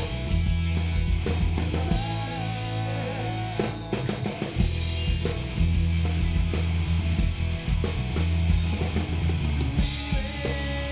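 Live rock band playing an instrumental passage between sung lines: drum kit hits under electric guitar and bass.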